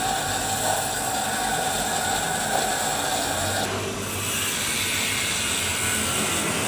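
Manual metal lathe working, a steady scraping, hissing machining noise that changes character about four seconds in.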